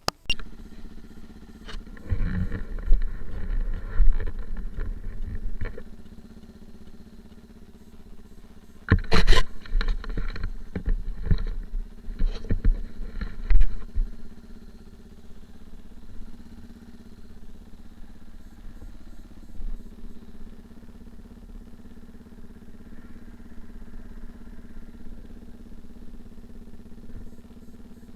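An engine running steadily, with two spells of louder low rumbling and knocks in the first half.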